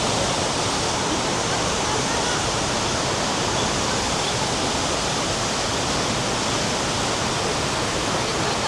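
Waterfall roaring steadily: a dense, even rush of falling water.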